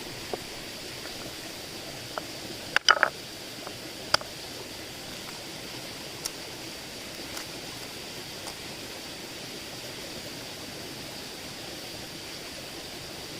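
Steady outdoor background hiss with a continuous high-pitched drone. A few sharp knocks and clicks of handling sound through it, the loudest a quick rattle about three seconds in and a single knock a second later.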